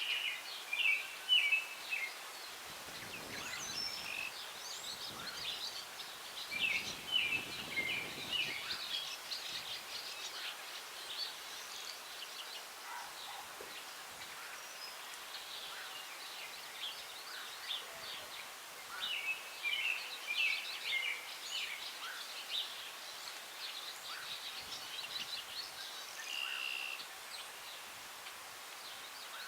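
Several songbirds singing and chirping in short, scattered phrases over a steady hiss of breeze in the trees. A gust brings a low rumble for several seconds near the start.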